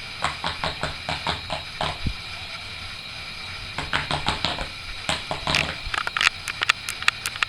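A small dog barking at an electric fan in quick, sharp runs of short barks, with a pause in the middle. The fan runs throughout with a steady high hum.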